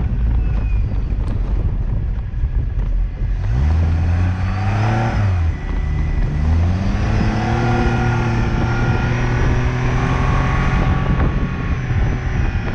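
Liege SS sports car's engine pulling hard: the note climbs, drops at a gear change about five and a half seconds in, climbs again and then holds steady, over constant road and wind noise.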